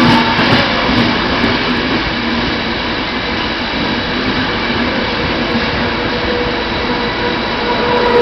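Trenitalia Frecciabianca passenger train rolling into the station, a steady loud rumble of wheels on rails with a faint, thin squeal held throughout that grows a little stronger near the end.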